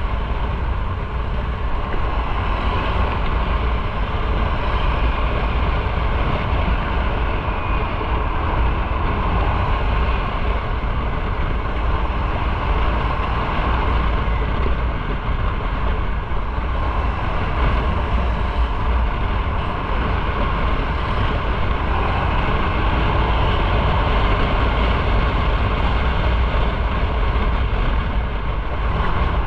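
A motorcycle riding along at steady speed: a continuous rush of wind over the microphone mixed with engine and road noise.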